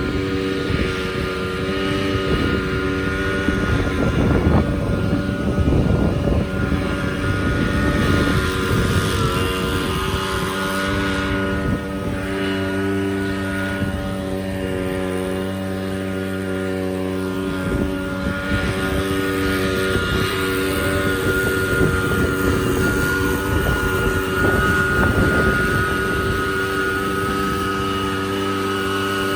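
A small engine running steadily at an even speed, with wind buffeting the microphone.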